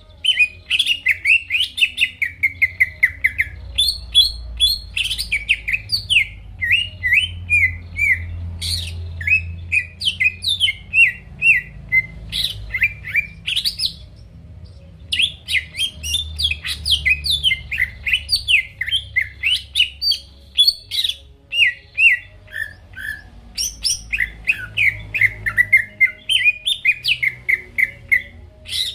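Green leafbird (cucak ijo) singing vigorously: a rapid, varied run of chirps and sweeping whistled notes, with a brief pause about halfway through.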